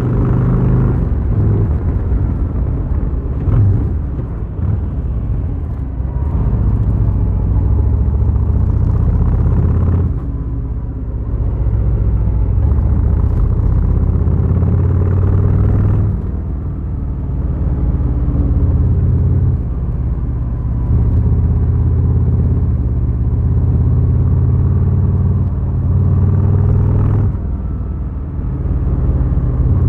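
Harley-Davidson Fat Boy's V-twin engine running under way, a deep steady rumble heard from the saddle. The note drops away briefly and changes pitch a few times along the ride.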